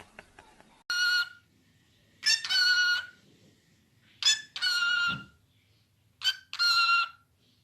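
A parrot mimicking a rooster's crow four times, each call a steady high-pitched note. The last three each begin with a short note before the longer held one.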